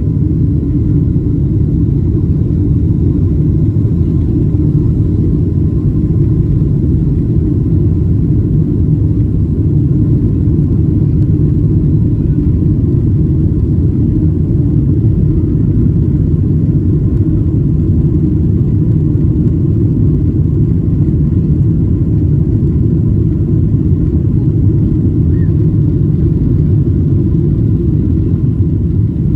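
Steady low rumble of the engines and airflow heard inside the cabin of a Boeing 777-200 airliner, even and unchanging in level.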